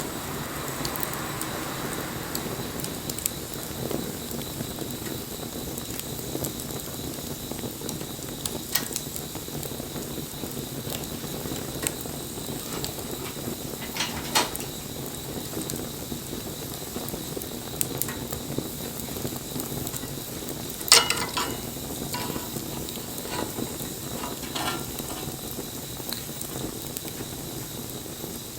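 Wood bonfire burning with a steady hiss and scattered crackles. A sharp pop comes about halfway through, and the loudest snap about three-quarters through is followed by a quick run of smaller crackles.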